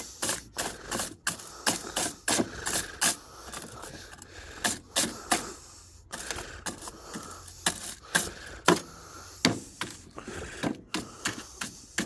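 Brush and scraper strokes knocking and scraping wet grass clippings off a lawnmower, an irregular series of sharp knocks and scrapes about two to three a second.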